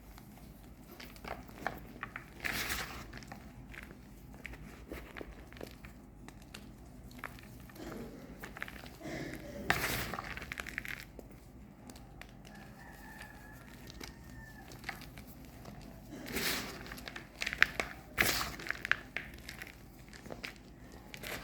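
Reformed gym chalk bars being crushed, with crisp crunches and crumbling crackles that come in a few louder bursts between stretches of small clicks.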